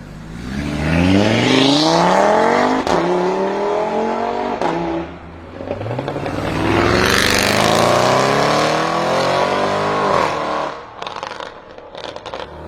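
Audi RS3 Sportback's turbocharged five-cylinder engine through a loud Armytrix aftermarket exhaust, making two long pulls with the engine pitch climbing, each dropping away. Near the end, as the throttle is closed, a scatter of sharp crackles and pops comes from the exhaust.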